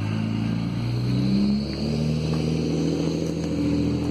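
A motor or engine running steadily, its pitch rising a little over the first second and a half and then holding.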